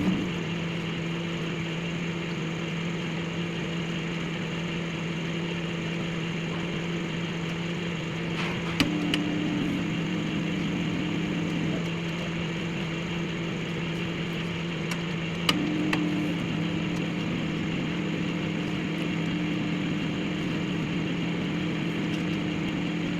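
Microwave oven running with a steady hum, broken by two sharp clicks, one about 8 seconds in and one about 15 seconds in.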